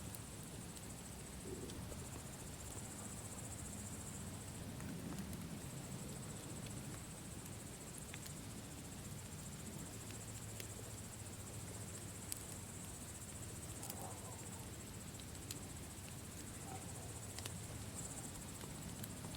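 Campfire ambience: a steady high trill of crickets over the low hiss of the fire, with a sharp crackle every few seconds.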